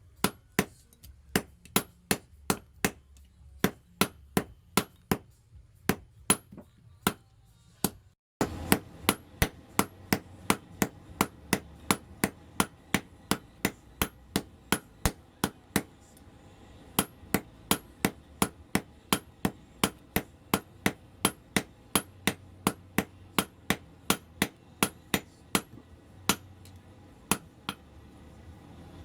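Hand-forging hammer blows on hot spring steel over an anvil: sharp ringing strikes in a steady rhythm of about two a second. The sound cuts out briefly about eight seconds in, then the blows carry on.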